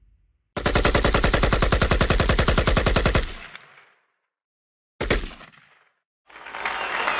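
A rapid burst of automatic gunfire, a fast even string of shots lasting about two and a half seconds, then a single shot a couple of seconds later. Applause begins near the end.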